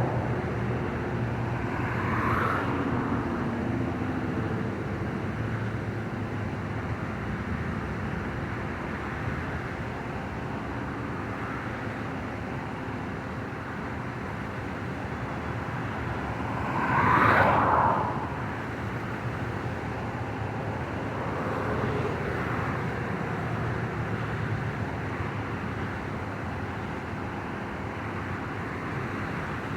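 Steady outdoor wind and traffic noise with a low hum underneath. A louder whoosh swells and fades about seventeen seconds in, with smaller ones near the start and about twenty-two seconds in.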